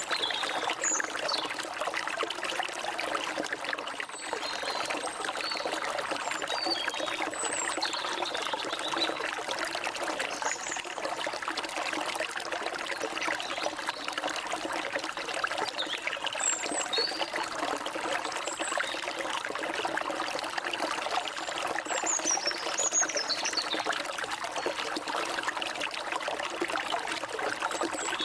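Forest stream trickling and splashing steadily, with short high bird chirps scattered throughout.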